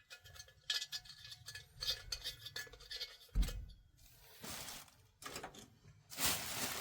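Small metal parts of a diesel heater being handled and set down: scattered light clicks and clinks, with a dull thump about three and a half seconds in and a brief rustle or swish near the end.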